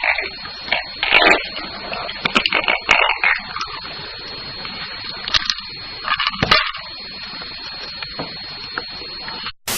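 A few sharp knocks and cracks over a steady hiss, with a thin high whine underneath.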